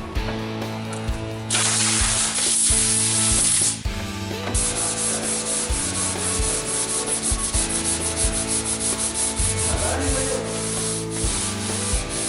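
Sandpaper rubbing over a car body panel, most likely sanding down body filler or primer. A steady stretch of continuous rasping gives way, about four seconds in, to quick, even back-and-forth strokes.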